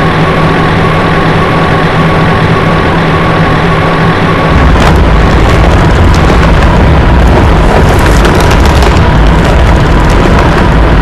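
Heavy machinery engine running loud and close, with a steady hum at first and a deeper, heavier rumble setting in about four and a half seconds in, with some clattering over it.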